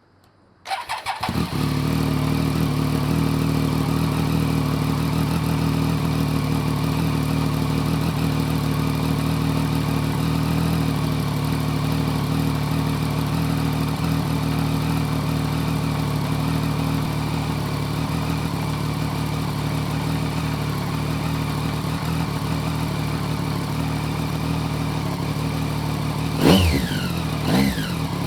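Triumph Street Triple 765 RS's three-cylinder engine, breathing through a Scorpion Serket Taper carbon silencer with the dB killer removed, cranks and catches about a second in, then idles steadily. Near the end it is given a couple of quick throttle blips, the pitch rising and falling sharply.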